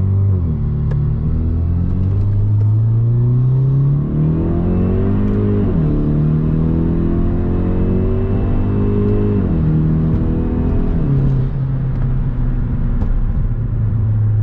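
2017 Hyundai Veloster Turbo's turbocharged 1.6-litre four-cylinder accelerating hard through the gears. The engine note climbs steadily in each gear and drops sharply at each upshift: near the start, about six seconds in and about ten seconds in.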